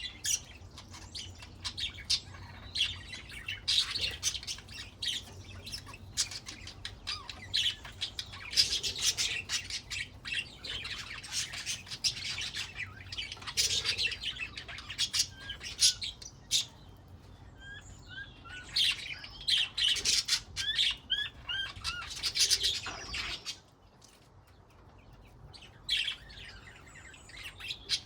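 Budgerigars chattering and warbling, a dense stream of chirps, clicks and rising little whistles in bouts, with a short lull near the end.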